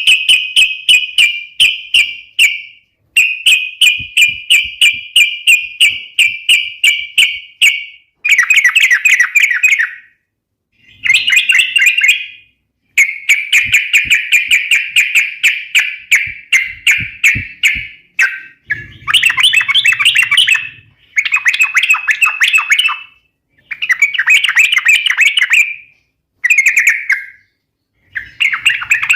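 Yellow-vented bulbul singing: a string of loud phrases, each a quick run of repeated chattering notes lasting a few seconds, with brief pauses between phrases.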